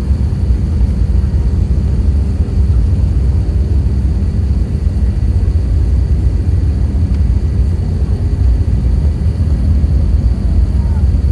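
Airbus A380 airliner's jet engines and airflow heard from inside the passenger cabin as a steady deep rumble while the aircraft takes off and climbs.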